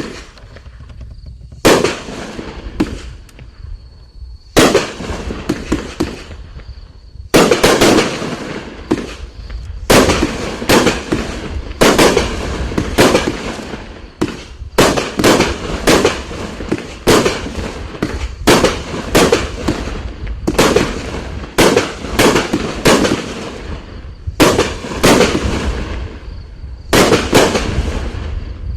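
Top Notch America's Grand Finale 500-gram consumer fireworks cake firing its shots: a string of sharp bangs starting about two seconds in, a few spaced out at first, then coming quickly, about one to two a second.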